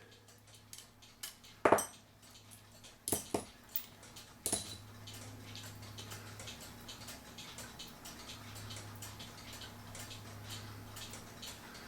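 Small metal cuckoo clock movement parts clicking and clinking as they are handled and taken apart, a few sharp clicks in the first half with lighter ticks between. A faint steady hum runs under the second half.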